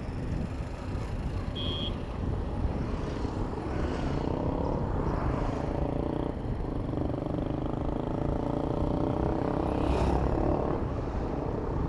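City road traffic heard from a moving bicycle: motor vehicles running close by, with wind rumbling on the microphone. There is a brief high beep about two seconds in and a sharp click near the end.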